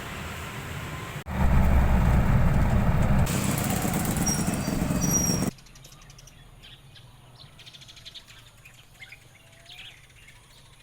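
Outdoor ambience from clips cut together: a loud steady rushing noise with a deep rumble for about the first five seconds, then an abrupt drop to quiet background with birds chirping.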